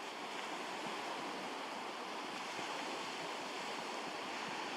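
Surf on a beach: small waves washing onto the shore, a steady hiss of moving water.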